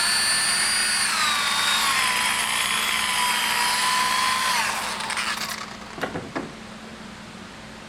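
Electric buffing wheel running with a high whine while polishing a finished drum shell with swirl remover; its pitch drops about a second in, holds, then it winds down and stops near the five-second mark. Two short knocks follow.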